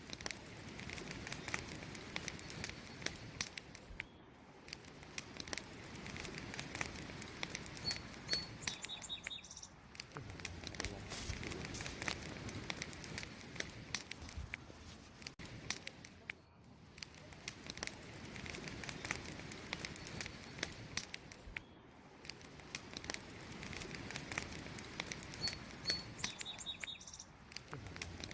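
Wood campfire crackling: a steady low hiss of burning wood with many small sharp pops and snaps. A faint high chirp sounds twice, about eight seconds in and again near the end.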